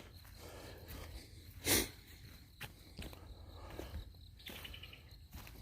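Faint outdoor ambience with insects chirping in short repeated bursts, a few soft footstep-like knocks, and one brief louder rustling crunch about two seconds in.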